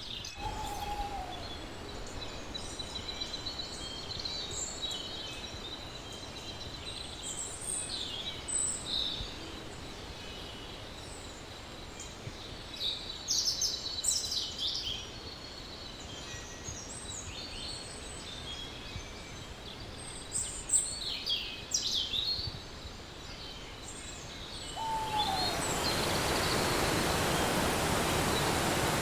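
Small birds chirping and trilling in short high calls over steady outdoor background noise. About 25 seconds in, a louder even rushing noise comes in and holds.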